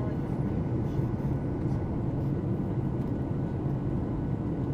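Steady low cabin rumble of a Boeing 737-800 under way, the noise of its CFM56-7B engines and airflow heard from inside the cabin.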